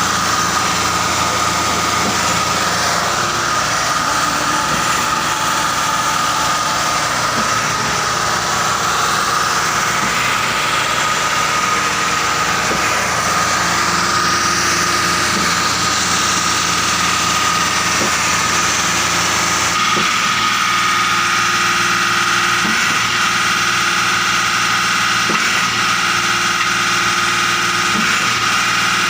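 Truck engine running steadily, with a steady high whine over it; the low rumble drops away about twenty seconds in.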